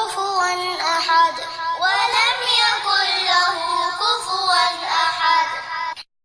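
A high-pitched voice chanting a melodic Arabic Quran recitation, with long held and gliding notes. It stops abruptly about six seconds in.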